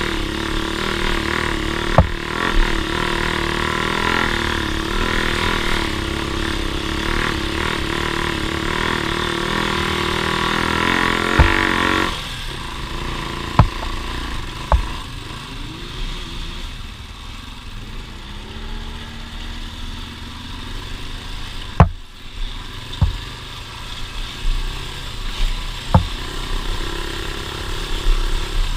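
Off-road vehicle engine running steadily, then dropping to a quieter, lower, wavering run about twelve seconds in. Several sharp knocks come through now and then.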